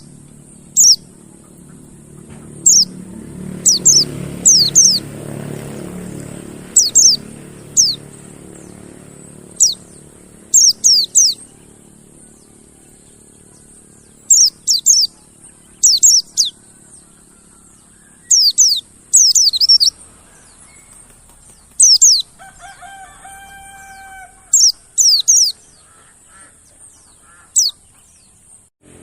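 Mountain white-eye (pleci monty) calling: short, sharp, high notes that fall steeply in pitch. They come singly or in quick runs of two or three, every second or two.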